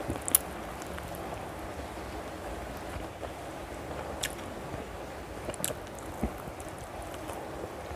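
A person chewing a mouthful of chicken curry and rice eaten by hand, with a few sharp wet mouth clicks and lip smacks, the loudest just after the start, over a steady low hiss.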